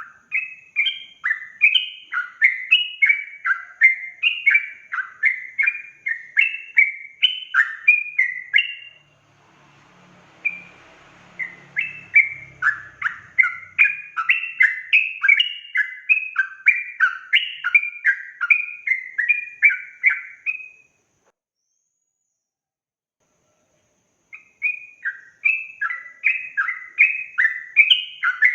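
Yellow-vented bulbul (trucukan) singing its fast chattering song: long runs of quick, repeated bubbly notes, about two a second. The song breaks off twice, for a few seconds each time, and resumes.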